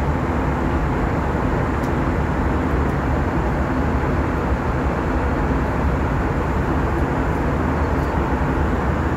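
Steady cabin noise of an Airbus A321 jet airliner in flight: the even rush of engine and airflow heard inside the passenger cabin.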